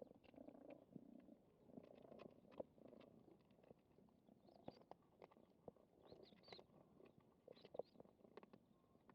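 Cats eating: faint, irregular clicks of chewing over a low rumble.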